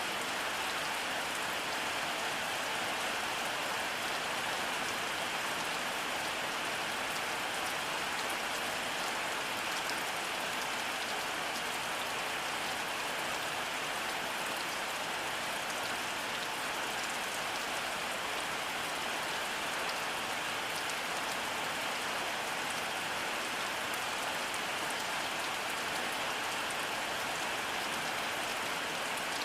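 Steady rainfall: an even, unchanging hiss of rain with a fine patter of individual drops, and no thunder.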